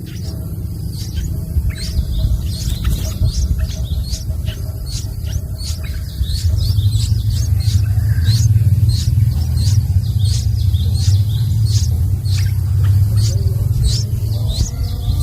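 Yellow-vented bulbul chick chirping over and over in short high calls, about two or three a second, over a loud low rumble that swells about halfway through.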